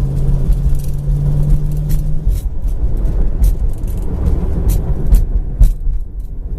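A 1965 Ford Thunderbird's 390 V8 engine running as the car is driven: a steady hum that climbs a little in pitch and then drops away about two seconds in, leaving a low road rumble with a few sharp knocks.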